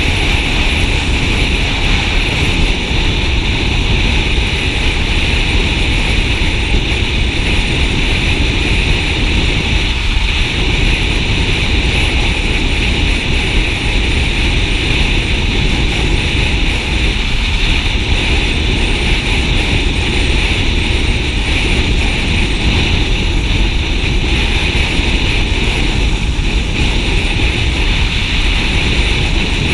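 Motorcycle ridden at steady speed: continuous engine and road noise with wind rushing over the microphone.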